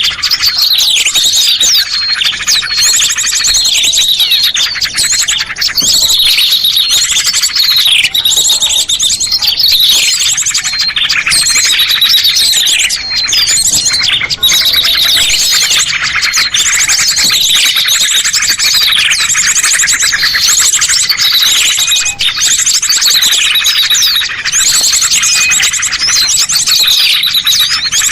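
A dense chorus of many small songbirds chirping and trilling at once, in a loud, continuous recording used as a bird lure. Quick high trills overlap with calls that slide down in pitch and repeat about once a second.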